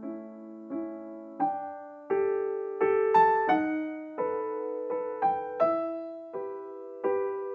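Gentle background piano music: single notes and chords struck about once or twice a second, each ringing and fading.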